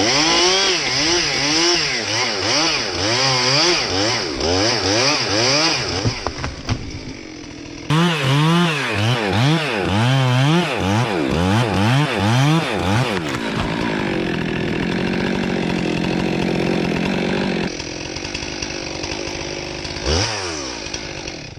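Chainsaw revving up and down over and over, then held at a steady high pitch for a few seconds while cutting wood. The sound changes abruptly about 8 seconds in, and there is another quick rev near the end.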